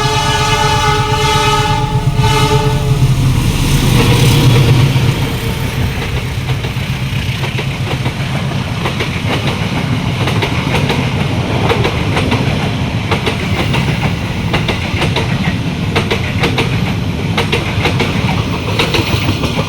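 Train horn sounding a multi-note chord for about three seconds, then a train passing close by: a steady rumble of the locomotive and carriages with the wheels clacking rhythmically over the rail joints.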